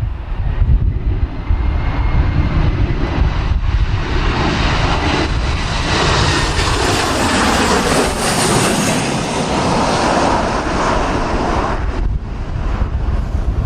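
Boeing 737 jet engines passing close by on landing, building to a peak around the middle and falling in pitch as the aircraft goes past, then dropping off sharply near the end. Strong gusty wind buffets the microphone throughout.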